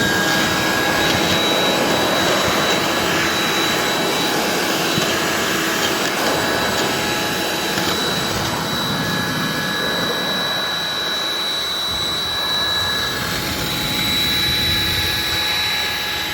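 Handheld leaf blower running steadily at full speed, a rush of air with a high motor whine over it.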